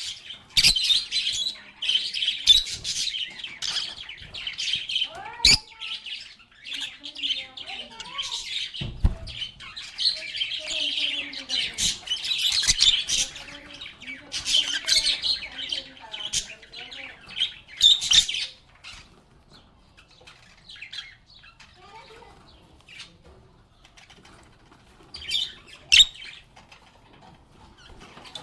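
A flock of lovebirds (Agapornis) chirping and chattering busily in high-pitched calls, mixed with sharp clicks. The chatter thins out about two-thirds of the way through, with a short burst of chirps near the end.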